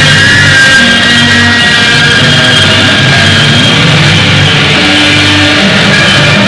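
Loud, dense rock music with distorted electric guitar and a moving bass line.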